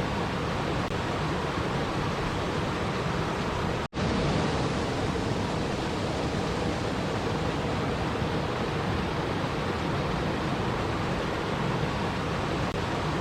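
Steady, even rush of running water, with no other sounds; it cuts out for an instant about four seconds in.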